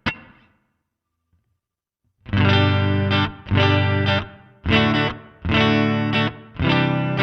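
Electric guitar, a Fender Stratocaster played through a Nux MG300 modelling amp with distortion. One short hit comes right at the start, then a pause of about two seconds, then a run of about five sustained distorted chords, each about a second long and cut off briefly before the next.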